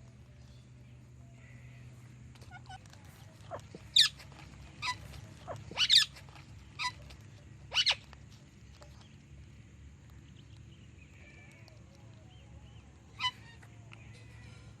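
Pet parrots giving short, sharp, shrill calls: a cluster of about six between four and eight seconds in, one more near the end, with faint chirps in between.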